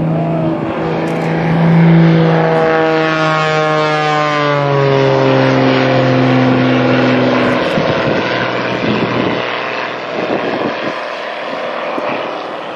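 Propeller airplane flying past, its engine drone sliding down in pitch as it goes by, then a broad rushing noise that slowly fades.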